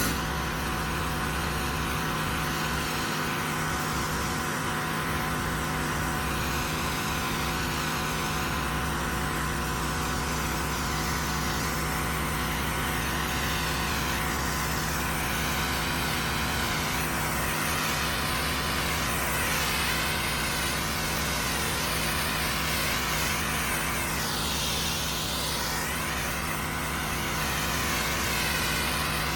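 Pressure washer running steadily, its engine humming under the hiss of high-pressure water spraying onto concrete, the hiss slowly sweeping up and down in tone.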